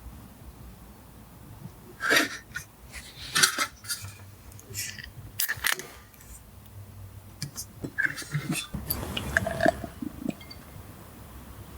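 Scattered clicks and clinks of things being handled. The louder ones come about two, three and a half and five and a half seconds in, with a cluster between eight and ten seconds.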